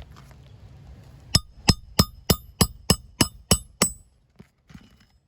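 Hammer driving roofing nails into a shingle being nailed back in: about nine quick ringing strikes, roughly three a second, beginning about a second and a half in.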